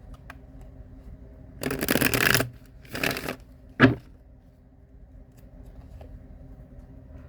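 Tarot cards being shuffled in two short bursts, then a sharp tap just before four seconds in.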